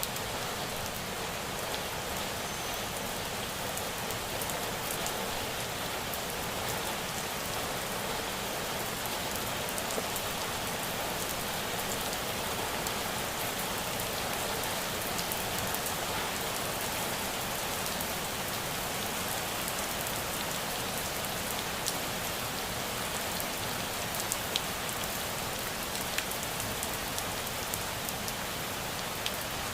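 Steady rain falling, an even hiss with single louder drops ticking now and then, more of them in the second half.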